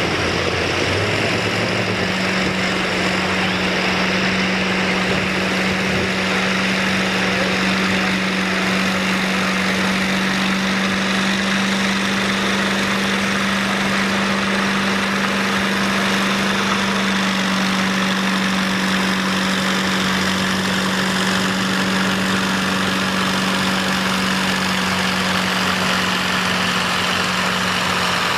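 A pulling vehicle's engine running steadily with an even, unbroken drone that barely changes in pitch.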